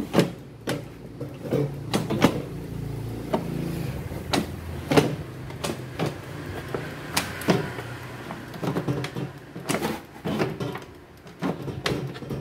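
Plastic casing parts of a Sharp air fryer being handled and fitted back together: a series of irregular sharp clicks and knocks.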